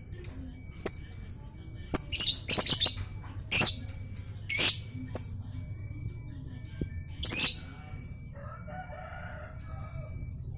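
Young lovebird, about three months old, chirping in short high notes, with several louder shrill calls between about two and eight seconds in.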